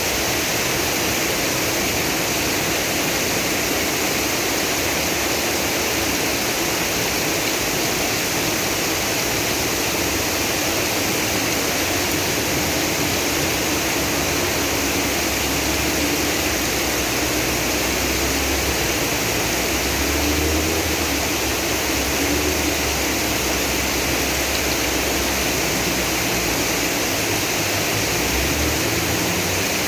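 Heavy rain pouring down, a steady dense hiss, possibly mixed with rushing floodwater. A faint low rumble rises about two-thirds of the way through.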